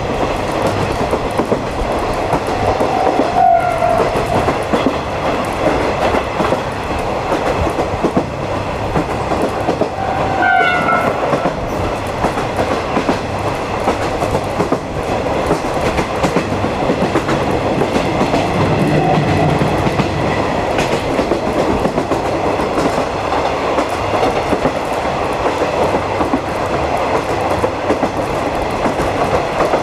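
Running noise of a 50-series passenger coach hauled by a DD51 diesel locomotive, heard from on board: a steady rumble with wheels clicking over rail joints. A few brief high-pitched tones cut through it.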